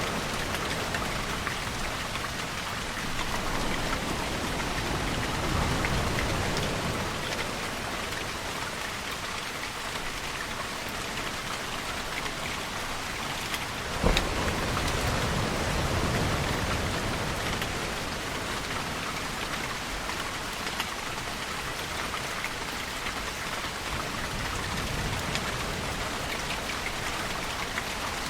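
Steady rain falling, with a low wash of ocean waves swelling up roughly every ten seconds. A single sharp tap stands out about halfway through.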